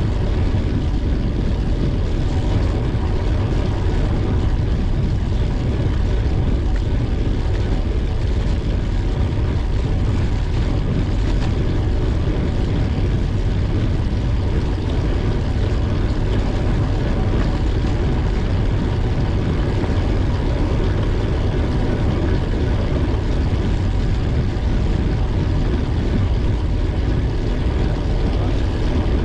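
Wind rumbling steadily over the microphone of a bicycle-mounted camera while riding, with a faint steady whine running underneath.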